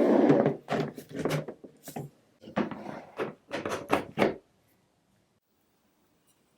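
A series of short scraping and knocking sounds, with a denser scrape at the start, stopping about four and a half seconds in.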